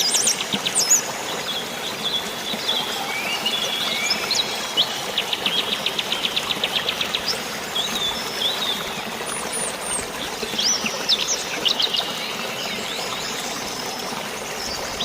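Forest birds chirping, with a quick, evenly spaced trill about a third of the way through and scattered short calls throughout, over a steady hiss of drizzling rain and running water.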